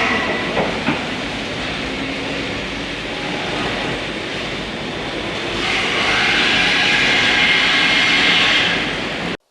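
Train running on rails: steady rumble and hiss with a few sharp clicks near the start, growing louder and hissier about six seconds in, then cut off abruptly.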